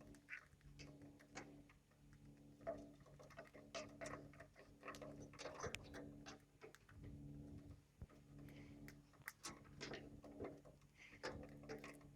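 Faint irregular clicks and taps of lovebirds' beaks pecking and cracking seed, with a low steady hum that stops and starts.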